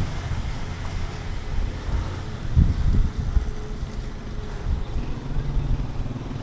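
Low rumble of street traffic going by, with wind buffeting the microphone.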